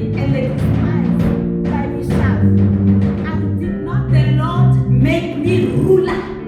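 Live gospel praise-break music: heavy sustained bass notes and repeated drum hits, with singing voices over them.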